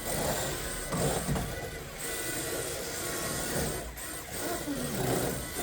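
Small electric motors of radio-controlled toy cars whining in short spurts, rising and falling in pitch as the cars speed up and slow down.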